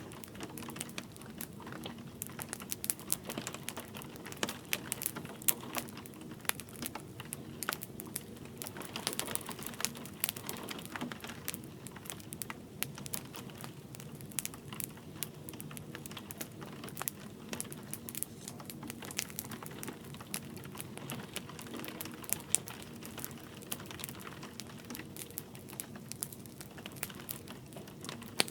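Wood fire crackling in a fireplace, with many small irregular pops over a steady low rush, blended with light rain.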